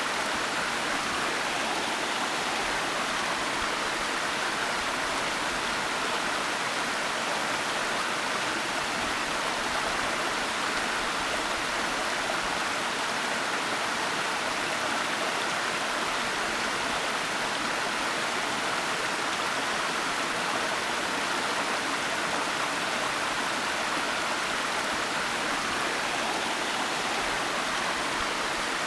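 Waterfall: a steady, even rush of falling water with no breaks or changes, its hiss strongest in the middle and upper range and with little low rumble.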